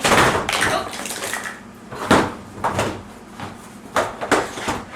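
Hard plastic shelf parts being handled and moved about: a series of short clattering knocks and scrapes of plastic on plastic.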